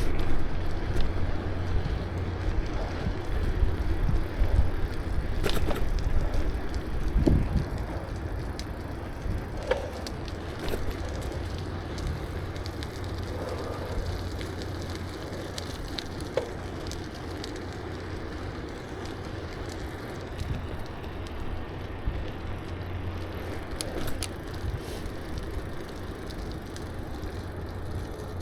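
Sound of riding a bicycle: a steady low rumble of tyres and air movement, with scattered light clicks and rattles from the bike. It is louder for the first several seconds, then eases to a steadier, quieter run.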